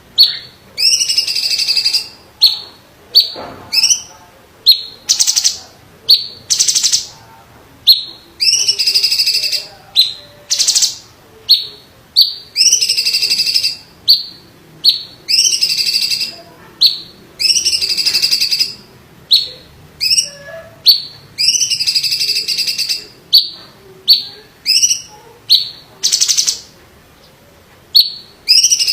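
A cucak ijo (green leafbird) singing a long run of loud, harsh call notes about once a second. Each note swoops up at its start, and some stretch into longer buzzy notes lasting about a second.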